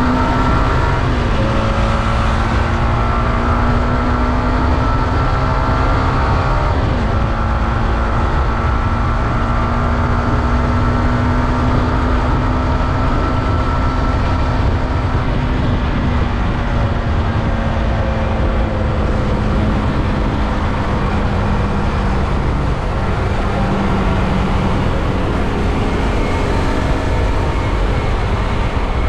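Yamaha R15M's 155 cc single-cylinder engine running through its stock exhaust while riding, with heavy wind rumble. The engine note drops suddenly about a second in and again about seven seconds in, then slowly eases lower.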